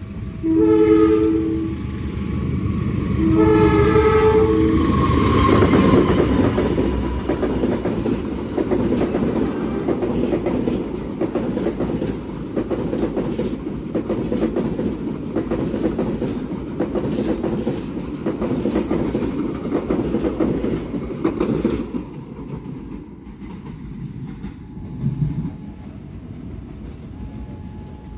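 CC 203 diesel-electric locomotive sounds its horn in two blasts as it approaches. It then passes at speed hauling a passenger train, the wheels clattering in a steady rhythm over the rail joints. The noise dies down about three quarters of the way through as the last coaches go by.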